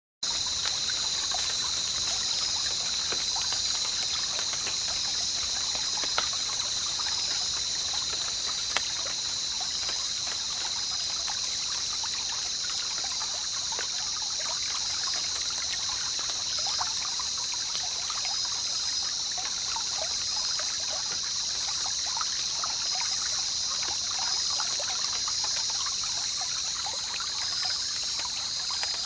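Water trickling steadily in many small irregular drips and splashes, over a constant shrill high-pitched sound with a fast pulsing pattern.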